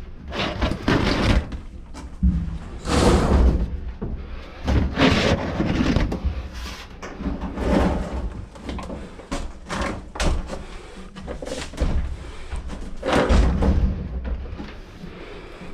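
Irregular knocks, bangs and clatter of sheet-metal dryer parts being handled and fitted, with a low rumble under them.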